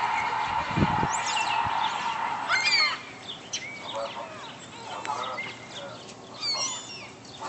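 A flock of seagulls calling overhead: many short, overlapping squawks and cries that rise and fall in pitch. A steady hum under the calls cuts off about three seconds in.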